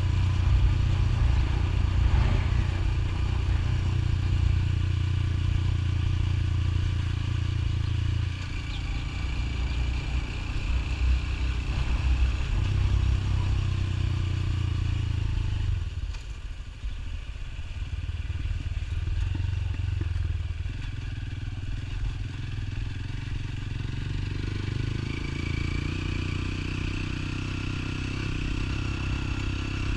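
Motorcycle engine running while riding, its low note easing off about halfway through and picking up again.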